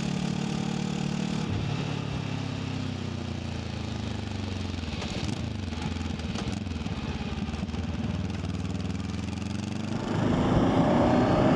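Voge 525 DSX motorcycle's parallel-twin engine through the stock exhaust, heard while riding: its pitch falls slowly as the bike slows off the throttle, then about ten seconds in the throttle opens and the engine and wind noise get louder.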